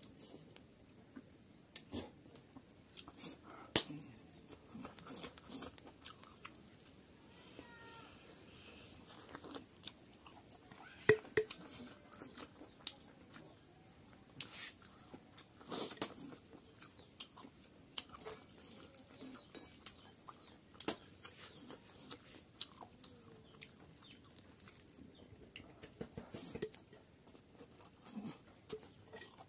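A person chewing a mouthful of chicken curry and rice, close up, with scattered sharp clicks throughout.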